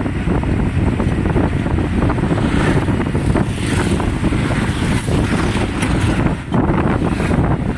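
Strong wind buffeting the microphone: a loud, steady rumble that dips briefly near the end.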